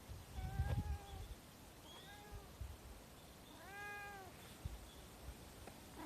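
Tabby-calico cat meowing three times, the last call longer and arching up then down in pitch, with a few low thuds near the first meow.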